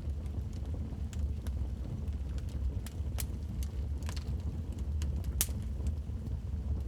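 Wood fire crackling in a fireplace: irregular sharp pops and snaps over a steady low rumble, with a cluster of pops around four seconds in and the loudest snap about five and a half seconds in.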